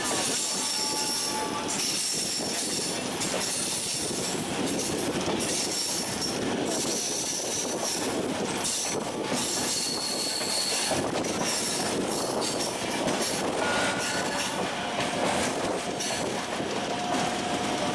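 Train running on the rails: a steady rolling noise, with high-pitched wheel squeals that come and go repeatedly.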